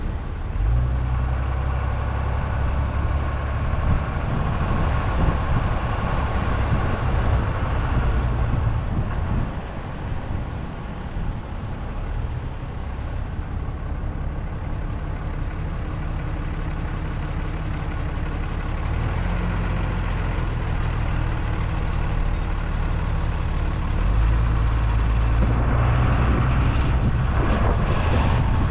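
A vehicle driving along a road: steady low engine and road rumble that grows louder a few seconds before the end.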